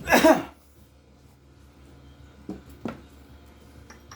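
A short vocal sound at the start, then two light knocks about half a second apart from metal engine parts being handled during teardown.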